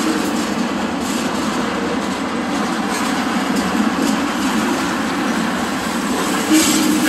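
Railroad tank cars rolling past close by: a steady rumble of steel wheels on the rails with occasional clacks, a sharper one near the end.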